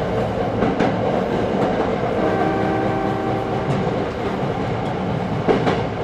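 Hankyu 6300 series electric train running, heard on board: a steady rumble with wheels clicking over rail joints. A steady pitched tone sounds for about a second and a half near the middle.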